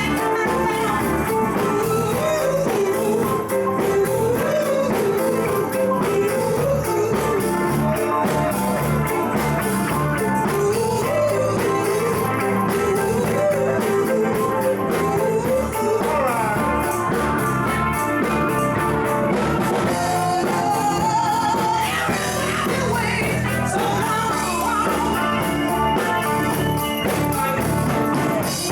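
Live band jamming a rock-and-roll style number, with a voice singing over the instruments; the melody moves higher about two-thirds of the way through.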